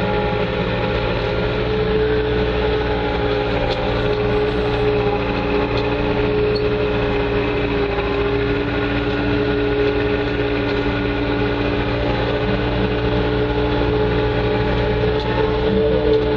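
Bobcat 2410 articulated loader's engine running steadily, heard from inside the cab, its pitch holding almost level with only a slight dip partway through.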